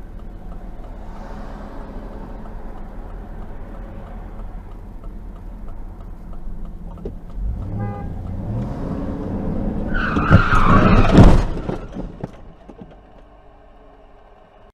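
Steady car road and engine noise, heard from a dashcam, builds up, then tyres screech with several sharp impacts about ten seconds in, the loudest part: a car crash. A quieter steady hum follows.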